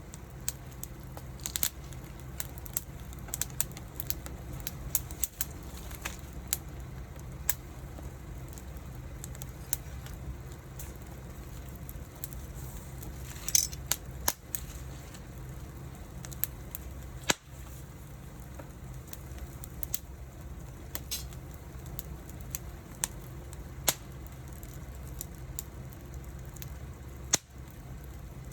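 Small wood fire kindled with dry loquat leaves, crackling with irregular sharp pops over a steady low rumble. One louder pop with a brief hiss comes about halfway through.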